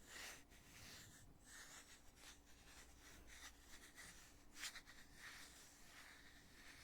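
Heavy lid of a foundation container being handled, opened and closed: faint rubbing and scraping with soft clicks, and one sharper click about four and a half seconds in.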